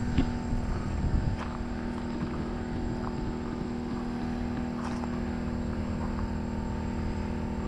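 Portable generator running steadily, a constant engine drone, with a few knocks and rustles in the first second or so.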